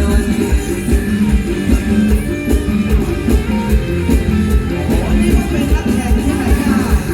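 Live mor lam band music with a steady drum beat and bass under held instrumental tones.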